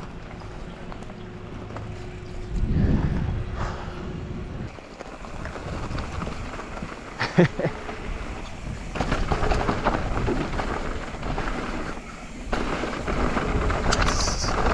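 Mountain bike riding down a dirt trail: tyres running over loose dirt, the bike rattling, and wind buffeting the helmet camera's microphone, with a sharp knock about halfway through.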